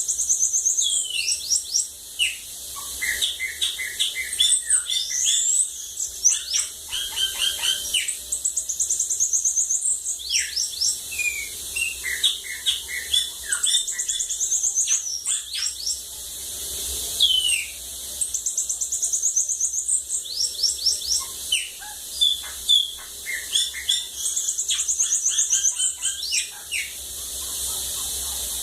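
Bananaquit singing: phrase after phrase of high, thin, rapid trills and quick downward-sweeping notes, with brief pauses between songs, over a steady high hiss.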